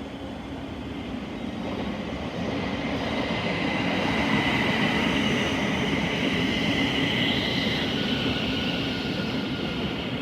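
Thameslink Class 700 electric multiple unit moving along the platform: a steady rumble that grows louder over the first few seconds, with a high whine over it.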